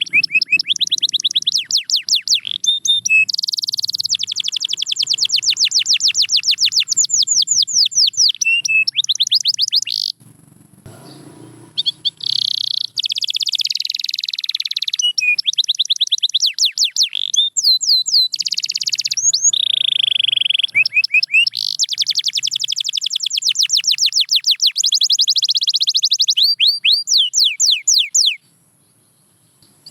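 Domestic canary singing long, fast trills of rapidly repeated high notes, with a few sweeping whistled notes between the trills. The song breaks off for about two seconds around the middle and stops shortly before the end.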